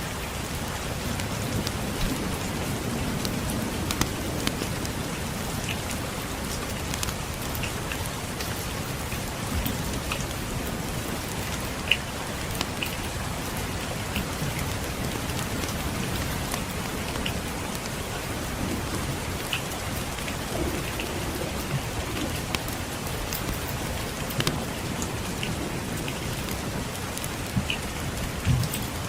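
Steady rain falling, with scattered small sharp crackles and pops from a wood fire in a fireplace over a low rumbling bed.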